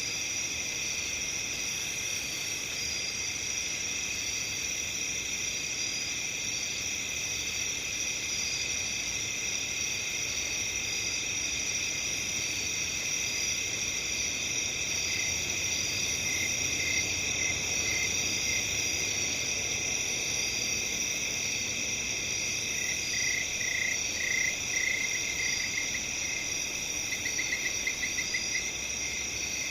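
Dense, steady chorus of crickets trilling at several pitches. In the second half, another caller adds short pulsed runs of chirps, most clearly near the end.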